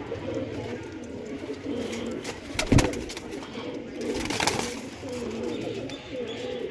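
Domestic pigeons cooing over and over, with a sharp knock about three seconds in and a brief rustle a little later.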